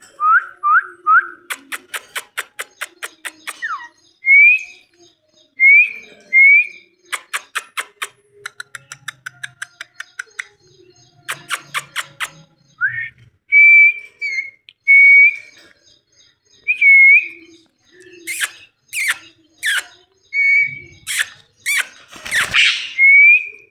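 Ringneck parrot whistling short rising notes, broken up by rapid runs of sharp clicks.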